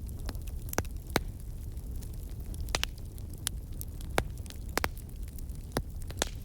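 Campfire burning: a steady low rumble of flames with sharp, irregular crackles and pops of burning wood.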